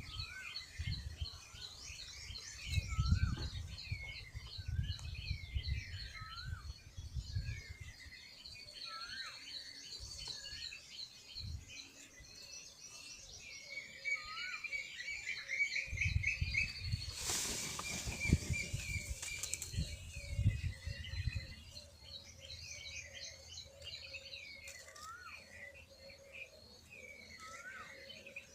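Many small birds chirping and twittering throughout, with a rapid trill about halfway through. Short noisy bursts and low fluttering come and go, loudest a little past halfway.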